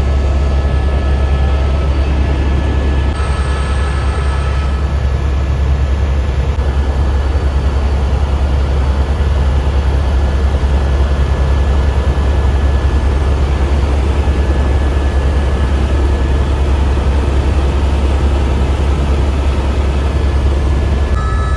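Helicopter engine and rotors running steadily: a loud, even low drone with thin, steady high-pitched whine tones above it.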